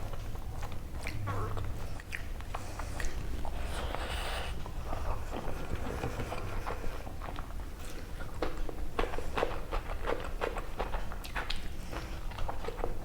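Close-miked chewing and mouth sounds of someone eating chicken curry with rice, with many short, irregular clicks and smacks.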